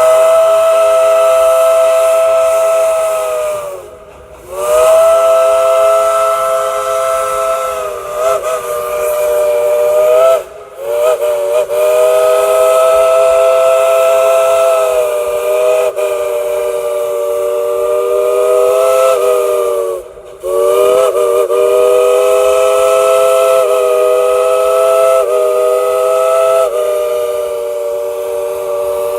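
Steam locomotive's chime whistle blown in long blasts, several tones sounding together as a chord, the pitch sliding up as each blast opens. Short breaks come about four, ten and twenty seconds in, with a few brief wavering bends in between, as the engineer plays it like music.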